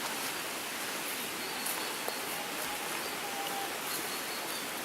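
Steady outdoor background hiss with no distinct event, an even noise like wind or distant running water.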